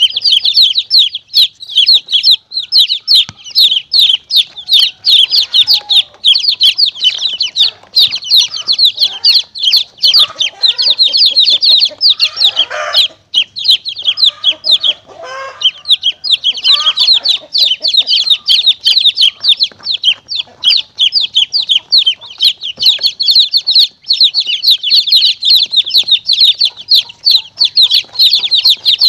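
Baby chicks peeping in a dense stream of rapid high chirps, a recording played as a call to lure monitor lizards and mongooses. Between about twelve and sixteen seconds in, a few lower sounds briefly join in.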